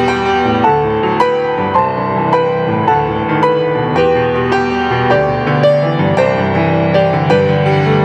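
Slow instrumental keyboard music, chords under a melody of held notes changing about once a second, played as the postlude closing a church service.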